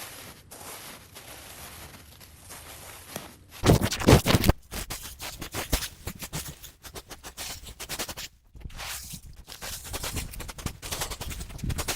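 Irregular scraping and clicking, with a loud burst of scraping about four seconds in.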